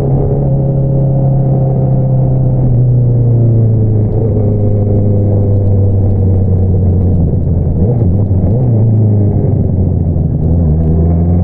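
2022 Honda CBR650R's inline-four engine running through an Akrapovič single-outlet exhaust while riding. The pitch eases down over the first few seconds, holds steady through the middle, and climbs again near the end as the bike accelerates.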